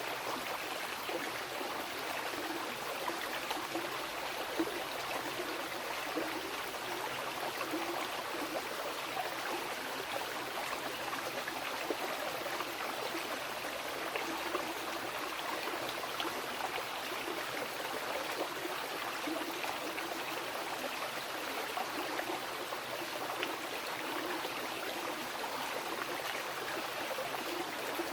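A fast mountain river rushing steadily over rocks, a continuous wash of water with small gurgles and splashes.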